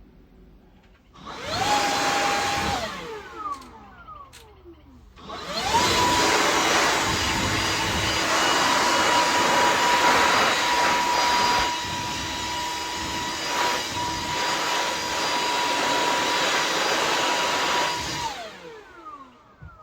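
Makita leaf blower run in a short blast about a second in, then, after a pause, a long blast of about thirteen seconds, blowing caked dust off an exhaust fan motor. Its whine holds steady at full speed and falls away as it spins down after each blast.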